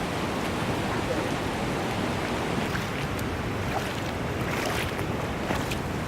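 Steady rushing of floodwater, an even, unbroken roar of moving water, with a few faint ticks in the second half.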